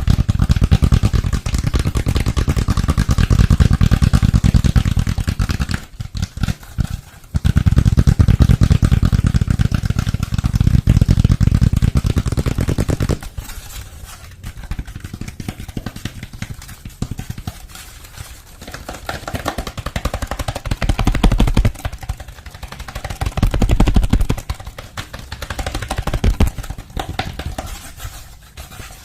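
Close-miked ASMR trigger sounds made with the hands: a dense, very rapid run of strokes, loud at first, then quieter and sparser about halfway through.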